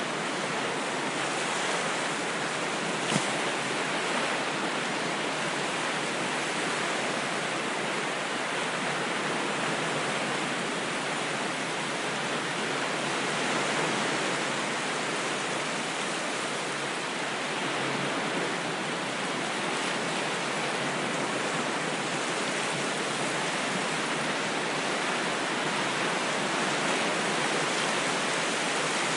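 Ocean waves making a steady, unbroken rush of surf with only slight swells, and one brief click about three seconds in.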